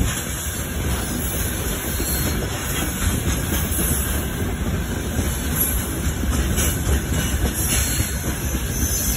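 Freight train of open gondola wagons rolling past: a steady rumble of steel wheels on the rails.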